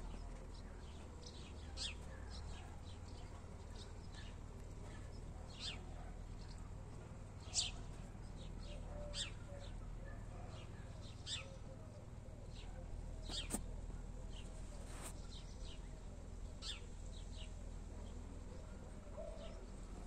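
Small birds chirping in short, scattered calls, with a low steady rumble underneath.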